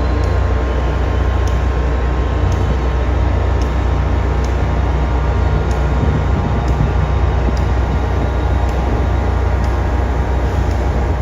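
Train locomotive running steadily, a loud, even deep hum with steady tones above it.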